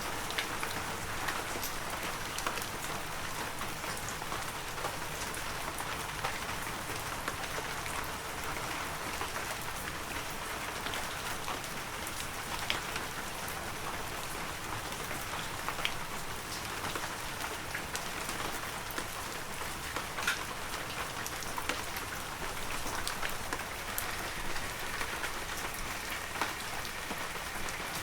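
Heavy rain falling steadily, an even hiss with many individual drops ticking sharply on top.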